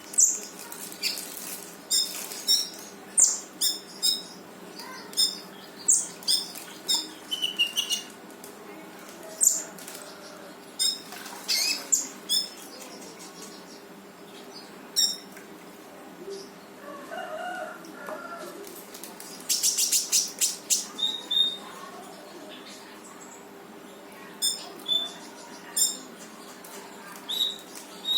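Konin songbird in full, vigorous song (gacor): bursts of short, sharp high call notes ('tembakan') repeated over and over, with a fast rattling run of notes about twenty seconds in.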